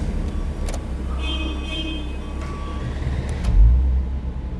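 Subaru Tribeca's EZ30D 3.0-litre flat-six engine running with a steady low rumble during an engine test. There are a few light clicks and a faint high-pitched tone about a second in, and a brief louder swell in the rumble about three and a half seconds in.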